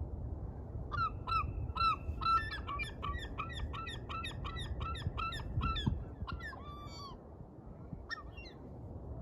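Gulls calling: a rapid series of short, downward-slurred calls, about three a second for some six seconds, with a second bird calling over the first, then a brief call near the end. A steady low rumble lies underneath.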